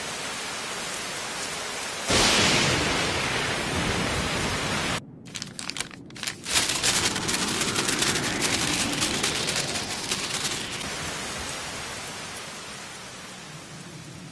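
Anime sound effects: steady heavy rain, which swells louder about two seconds in and cuts off abruptly a few seconds later. Then comes a rapid fluttering of many paper sheets, dense for several seconds before thinning out and fading back into rain.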